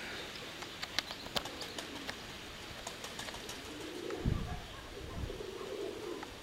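Domestic pigeons cooing, the low coos mostly in the second half, with a few sharp clicks about a second in.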